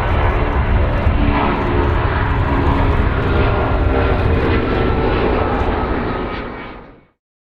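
Airplane engines running loud and steady with a deep rumble, fading out about six and a half seconds in.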